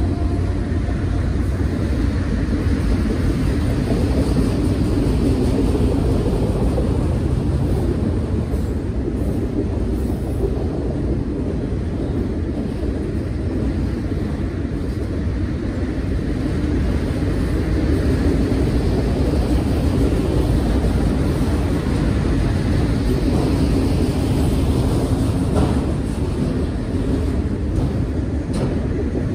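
Freight train cars rolling past: a gondola, then a line of autorack cars, with a steady, continuous rumble of steel wheels on the rails.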